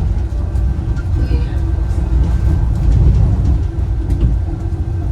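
Wuppertal Schwebebahn suspension railway car running, heard from on board: a continuous low rumble with a steady hum.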